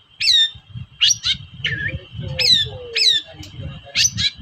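Long-tailed shrike (cendet) giving a run of harsh, sharply down-slurred calls, often in pairs, about one to two a second, over a steady high whine: the excited 'toet-toet' calls used to rouse other shrikes into calling.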